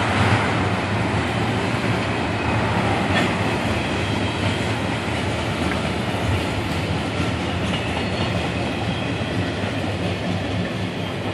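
Double-stack container freight train rolling past, its steel wheels running steadily on the rails. The sound slowly fades as the last cars go by.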